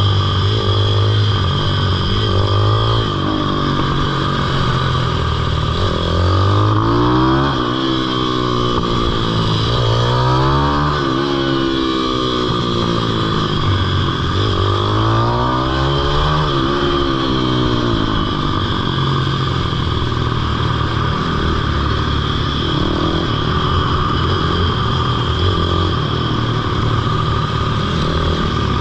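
Pitbike engine revving up and down repeatedly as the bike is ridden around a kart track, the pitch climbing and falling several times before holding more evenly in the second half.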